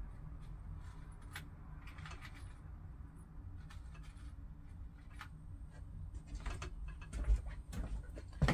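Metal drill bits being dropped into the holes of a bit holder: scattered light clicks and taps, coming closer together near the end.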